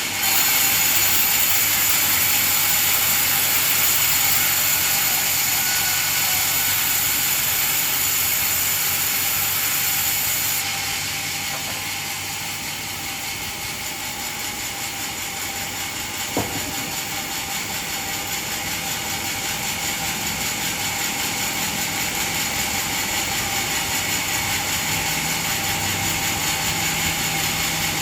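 Band sawmill running, its blade sawing through a coconut trunk with a steady hiss and high whine. The high part of the sound falls away about ten seconds in, and there is a single sharp knock a few seconds later.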